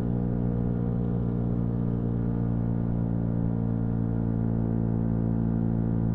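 Yamaha MT-125's single-cylinder four-stroke engine running at a steady cruising speed, its exhaust note holding one even pitch.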